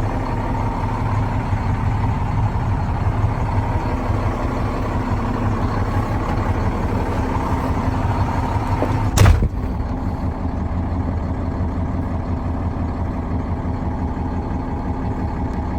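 2007 International 7600 truck engine idling steadily. A single sharp thump sounds about nine seconds in.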